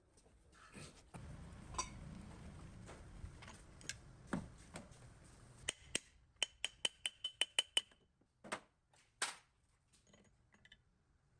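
Small metal parts being handled with hand tools: a stretch of scraping or rubbing, then a quick run of sharp metallic clicks, about six a second for over a second, and a few single knocks.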